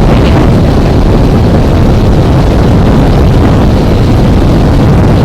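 A 150 cc motorcycle at speed: steady wind rushing over the microphone mixed with the engine running at high revs, loud and unbroken.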